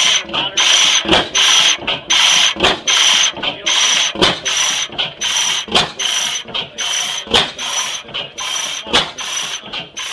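A 25 hp South Penn 'Half Breed' oil field gas engine with hot-tube ignition, running on propane at a slow, steady beat. It repeats a cycle of short hissing puffs and a sharp click, about once every second and a half.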